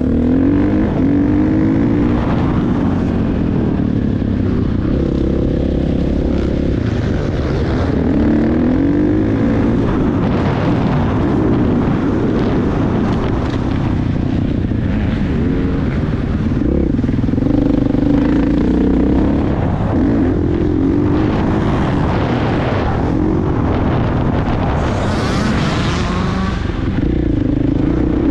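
Motocross bike engine running hard, its pitch rising and falling over and over as it revs up and eases off through the gears.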